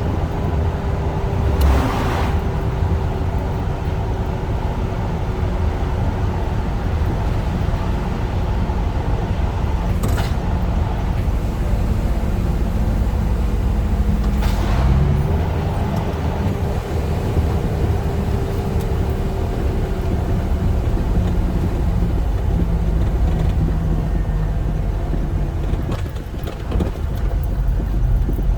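Scania truck engine running steadily at cruising revs in direct gear, with road noise under way. Three brief sharp sounds cut in: about 2, 10 and 14 seconds in.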